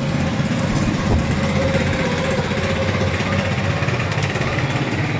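Steady engine noise running throughout, like a small motor or vehicle idling.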